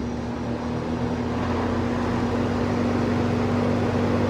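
Vintage Sears box fan running: its electric motor gives a steady hum over the rush of air from the blades, slowly getting louder. The owner takes the hum to mean the motor is on its way out, possibly with a bad switch too.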